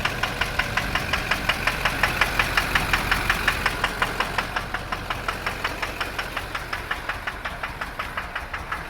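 LB7 Duramax 6.6-litre V8 diesel idling with a sharp, regular knock about six times a second. The knock is the sign of a possible bad injector.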